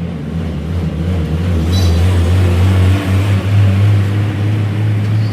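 Truck engine running with a low, steady drone, its pitch rising slightly about three seconds in as it picks up revs.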